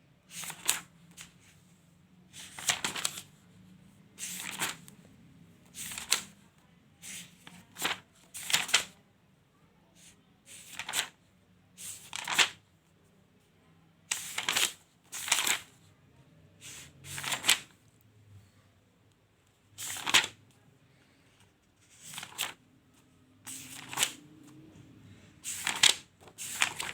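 Paper pages of a notebook being turned one after another, a short crisp rustle about every second or two.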